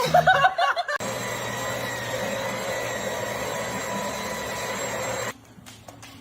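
About a second of a loud, wavering, high-pitched vocal sound, then the steady whirring of an electric motor with a constant whine, which cuts off abruptly about five seconds in.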